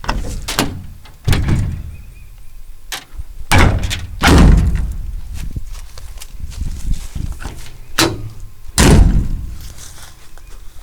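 Metal doors on a Chevrolet 3500 bucket truck being opened and shut one after another: a series of thunks and slams, about six loud ones with a few lighter clicks between.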